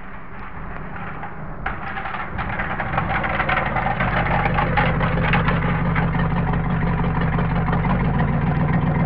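Car engine running, growing louder over the first few seconds and then holding steady, with a rapid crackle on top.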